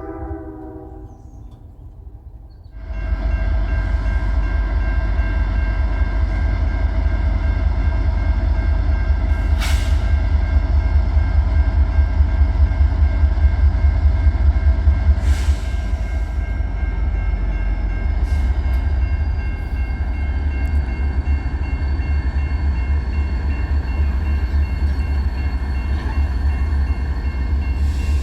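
A diesel locomotive's horn ends about a second in. About three seconds in, the loud low rumble of the diesel engine comes in and runs on steadily, with a few sharp clicks from the wheels on the rail.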